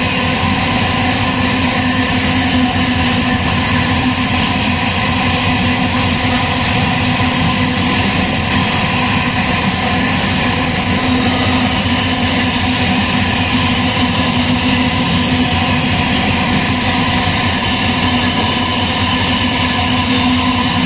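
Loaded iron-ore freight train passing, its diesel-electric locomotives running and its ore wagons rolling on the rails: a loud, steady running noise with several held engine tones and no breaks.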